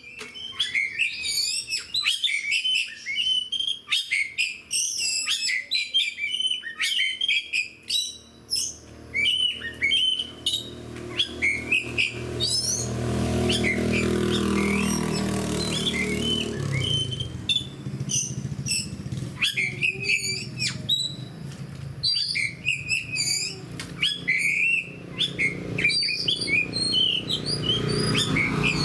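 Oriental magpie-robin singing a rapid, varied run of loud whistled and chattering phrases, with other songbirds mixed in. A low droning hum swells and fades about halfway through.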